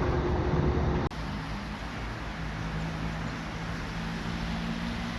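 A train's loud rumble cuts off abruptly about a second in, giving way to a steady, quieter low engine hum with a faint background haze.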